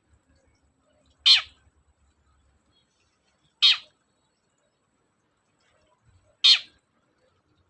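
Long-tailed shrike (cendet) giving three short, harsh, screechy calls about two and a half seconds apart, each dropping in pitch at its tail.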